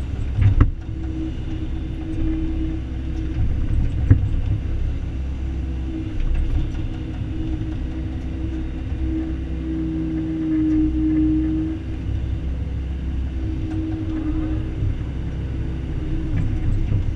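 Excavator running while digging: the diesel engine's steady low rumble with a hydraulic tone that swells and fades, and two sharp metallic knocks, about half a second in and about four seconds in.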